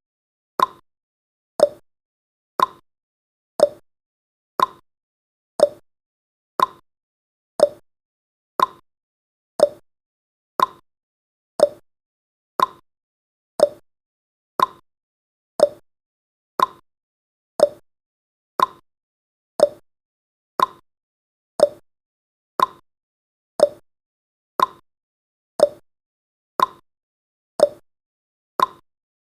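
Countdown timer's ticking sound effect: one short, sharp tick every second, evenly spaced throughout.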